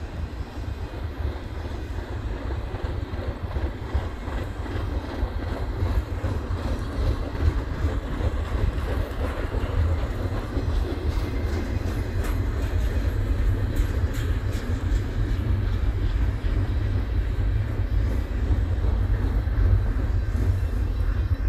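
Double-stack intermodal container well cars of a freight train rolling past, a steady rumble of steel wheels on rail with some light clicking midway.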